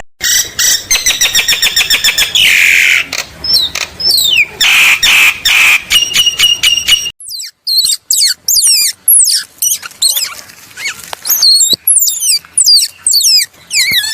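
High-pitched animal calls. First a quick series of chirps and clicks with a falling sweep, then, after a sudden change about seven seconds in, many short high squeaks that rise and fall in pitch.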